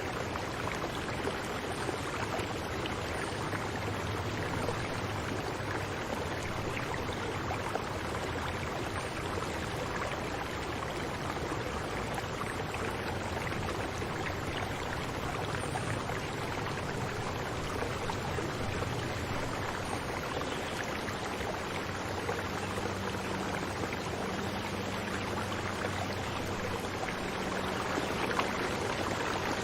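Steady rush of running water with no breaks, and a faint low hum beneath it.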